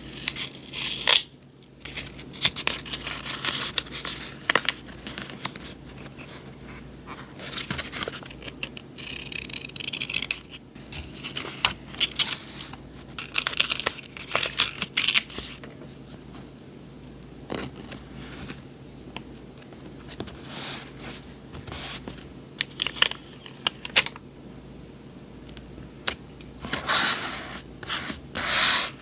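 Paper journaling supplies and their packaging being handled: irregular rustling, sliding and crinkling of paper, with scattered light taps.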